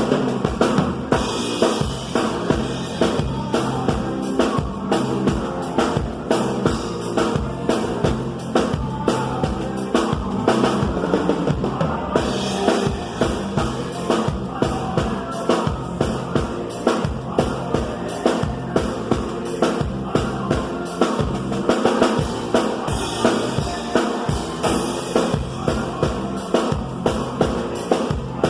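Live band music led by a drum kit keeping a steady beat, with bass drum and snare strokes over bass and other instruments.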